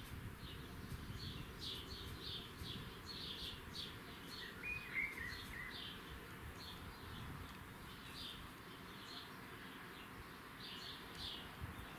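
Small birds chirping: short high chirps repeated again and again, with one lower, warbling call about five seconds in, over a low background rumble.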